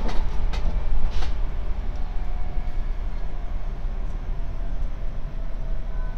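Muffled low rumble of a train, with a few handling knocks in the first second or so as the recording device is covered.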